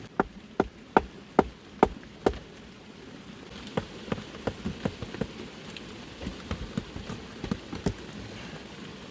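Six sharp knocks at an even pace, about two and a half a second, then from about three and a half seconds in lighter, irregular taps over a steady hiss like rain.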